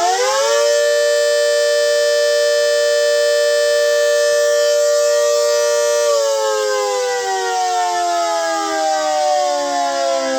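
GS CS-10V15QT dual-tone mechanical siren at full pitch. It finishes spinning up about half a second in, holds a steady two-note chord, then winds down in a long falling glide from about six seconds in. The rotor bearings are bad.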